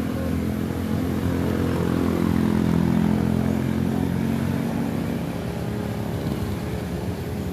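A motor vehicle's engine grows louder to a peak about three seconds in, then fades, as it passes by. Wind rumbles on the microphone underneath it.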